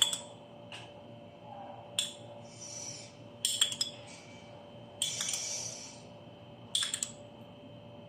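Kitchen utensils clinking against cookware: about half a dozen sharp separate clinks roughly a second apart, a few followed by a brief hiss, as saffron is added over half-cooked rice layered in a pot for biryani.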